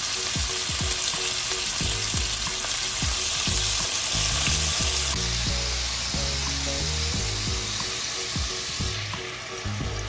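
Sturgeon steaks and ginger sizzling as they pan-fry in hot oil, a steady frying hiss that eases slightly near the end.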